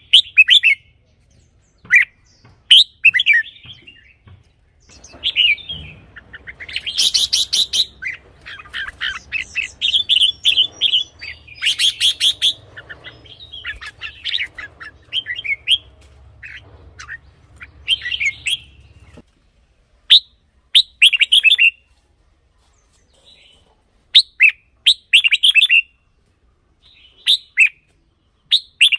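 Red-whiskered bulbul singing short, bright whistled phrases of quick notes. The phrases come in a dense run through the middle and are spaced with pauses near the start and end.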